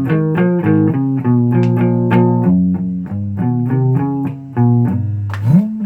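Guitar playing a quick run of low plucked notes, several a second. Near the end one note is bent up in pitch and back down.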